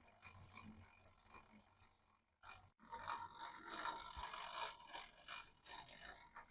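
Restored antique hand drill's gear mechanism being worked, giving a faint, irregular clicking mechanical clatter that breaks off briefly about two and a half seconds in.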